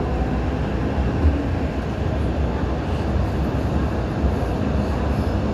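MTR M-Train electric multiple unit running, heard from on board as a steady low rumble of wheels and running gear.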